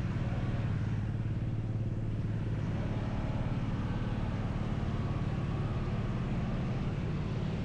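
Motorcycle engine running steadily while riding, a constant low hum with no change in speed.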